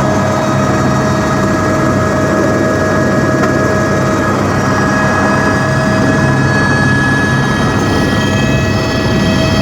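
Helicopter in flight: steady engine and rotor noise with a constant high whine. Higher whining tones grow stronger about halfway through.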